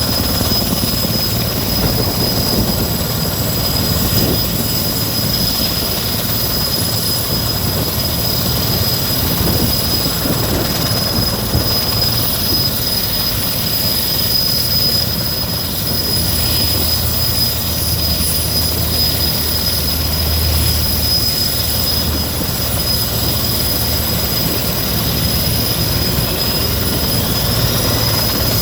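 Sikorsky S-64 Skycrane helicopter's twin turbine engines running steadily, a constant high-pitched whine over a low rumble. Near the end, rising whines begin as the engines spool up.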